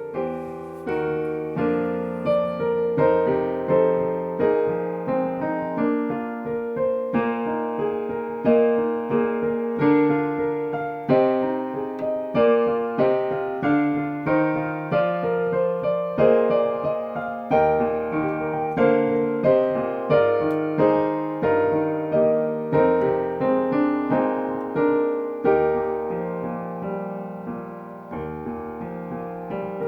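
Piano playing a slow, steady postlude, one or two struck notes or chords a second, each ringing on.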